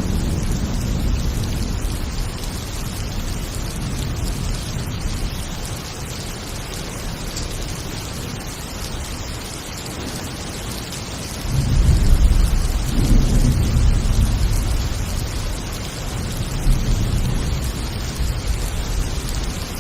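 Heavy thunderstorm: steady rain hiss under rolling thunder, with a loud clap of thunder breaking about twelve seconds in and rumbling away over several seconds.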